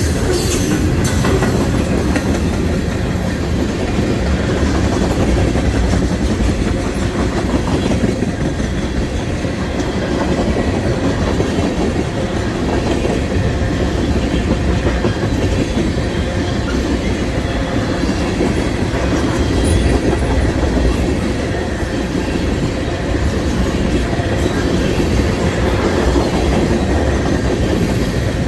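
Freight cars of a passing CSX manifest train rolling by steadily, their wheels clicking and rumbling over the rails.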